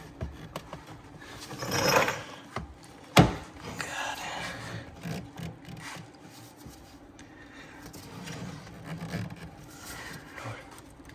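Plastic rubbing and scraping as evap hose connectors are worked onto a car's leak detection pump, with one sharp click a little after three seconds in.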